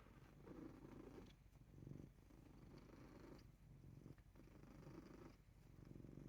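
Ragdoll cat purring softly, the purr swelling and fading with each breath about once a second.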